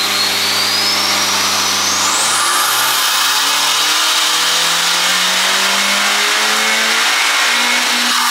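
Honda Civic Type R's big-turbo 2.0-litre four-cylinder on a dyno at full throttle. The engine note holds for about two seconds, then climbs steadily, while a high turbo whistle rises steeply over the first three seconds and stays high.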